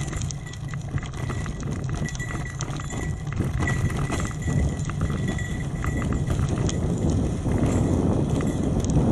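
Trek 8.3 DS hybrid bicycle riding over a rough forest road: the bike rattles and clicks irregularly over the surface under a steady rumble of tyre and wind noise. It grows louder near the end.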